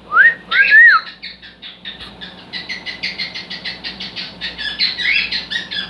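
Cockatiel vocalizing: two loud rising whistles, then a fast run of short chirps and chatter, about six a second.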